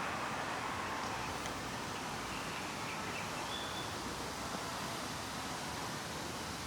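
Steady outdoor ambient hiss on a hillside walk, with a few faint, short bird chirps.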